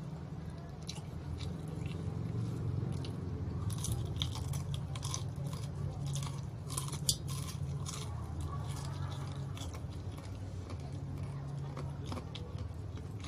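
Close-up crunching and chewing of crispy deep-fried chicken batter, a run of short crisp crunches that is densest around the middle, with one sharp click a little past halfway. A steady low hum lies underneath.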